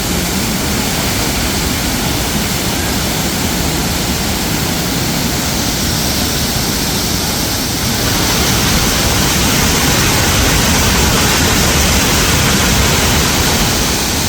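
Waterfall crashing as a steady, loud rush of falling water, growing a little louder and hissier about halfway through.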